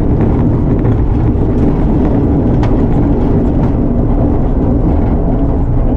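Ford Ka rally car's engine running steadily, heard from inside the cabin while the car drives on a dirt road, with a few faint ticks.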